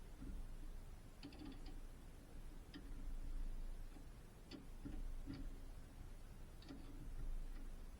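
Scattered light metallic clicks and clinks, about eight at irregular intervals, some ringing briefly, over a steady low hum.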